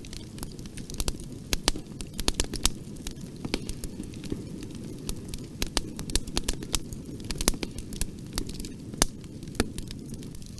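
Wood fire crackling in a fireplace: irregular sharp pops and snaps, several a second and some much louder than others, over a steady low rumble of the burning.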